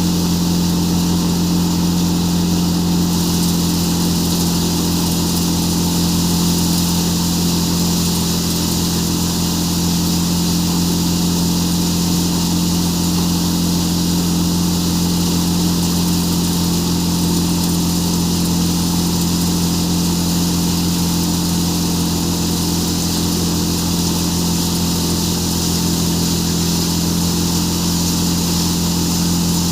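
Tractor-driven threshing machine, powered by a Farmtrac tractor, running steadily while threshing chickpeas: an even, unbroken drone with a strong low hum.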